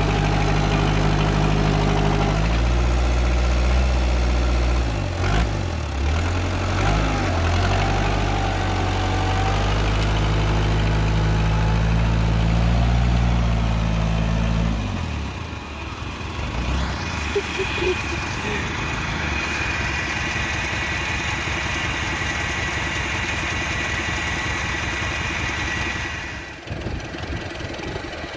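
Tractor engine running: a steady low drone for about half the time, then a lighter, rapid even chugging with a faint high whine, which drops off abruptly near the end.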